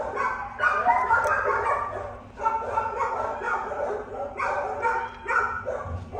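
Several dogs barking and yipping over one another, with some whimpering.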